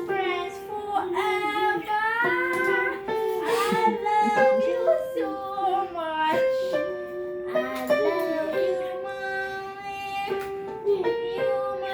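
A young child singing a simple song over held notes from a musical instrument.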